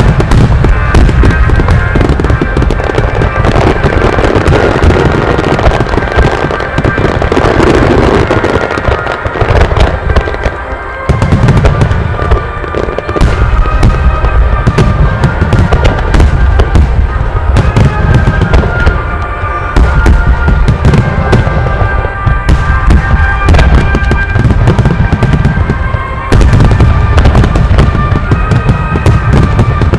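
A dense barrage of aerial fireworks: booming shell bursts with crackling in quick succession, over music played through the display's loudspeakers. The bursts ease for a moment around the middle, then pick up again.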